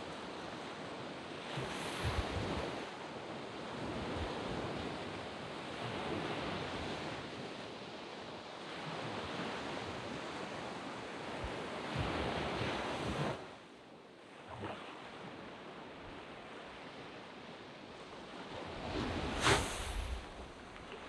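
Waves breaking and washing up on a sand beach, a continuous surf rush that swells and ebbs. Louder breakers come about two seconds in and around twelve seconds, with a sharp crash near the end.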